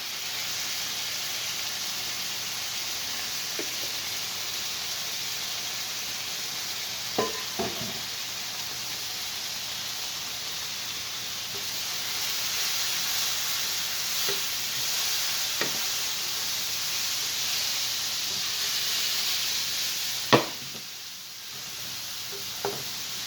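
Sliced onions, bell peppers and minced garlic sizzling in oil in a frying pan, a steady hiss. A few sharp clicks, like a utensil knocking against the pan, come through it, the loudest near the end, after which the sizzle briefly quietens.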